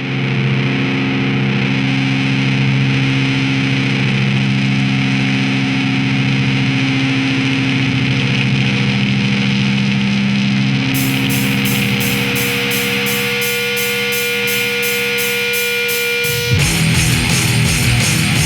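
Heavy, distorted electric guitar music: long held low chords ringing out, then a fast, even ticking beat joins about eleven seconds in, and a heavier, pulsing riff kicks in near the end.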